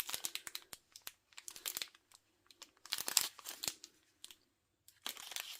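Small plastic bags of diamond-painting drills crinkling as they are handled, in short bursts of crackling with a brief pause about four seconds in.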